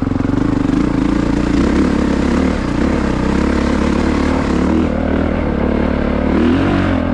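Honda CRF450RX's single-cylinder four-stroke dirt bike engine running under way, its pitch rising and falling near the end, with the noise of the tyres on fresh, loose gravel.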